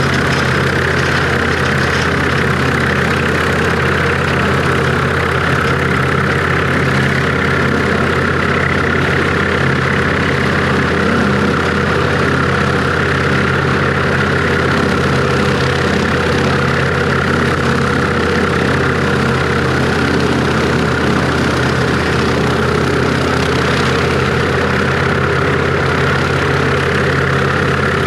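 International Harvester 1086 tractor's six-cylinder turbo diesel running steadily and loudly while pulling a bush hog, with a constant drone and an even whine heard from inside the open-doored cab.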